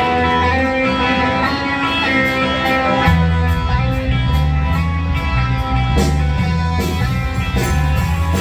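Live rock band starting to play, opening on a ringing electric guitar. A heavier bass line joins about three seconds in, and drum hits come in about six seconds in.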